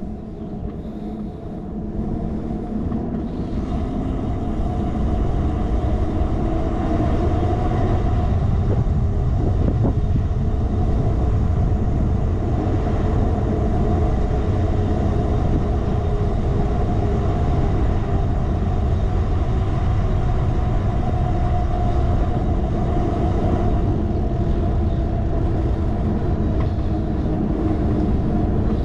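Wind rushing over a handlebar-mounted action camera's microphone, together with the rumble of bicycle tyres on the road. The sound builds over the first few seconds as the bike picks up speed, then holds steady.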